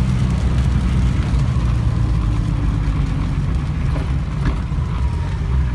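Datsun 1600 (510) driving on a wet road: a steady low engine drone with the hiss of tyres on water.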